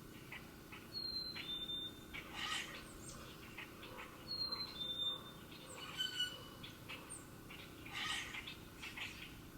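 Songbirds calling: a clear two-note whistle, the second note a little lower, repeats a few times among short chips and twitters.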